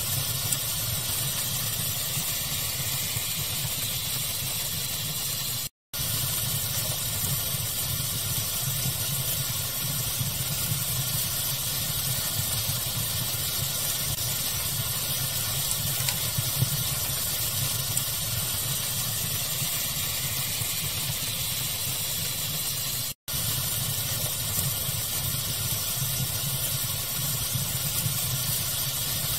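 Steady pink-noise hiss layered with a crackling wood fire. The sound cuts out twice for an instant, about six seconds in and again about twenty-three seconds in.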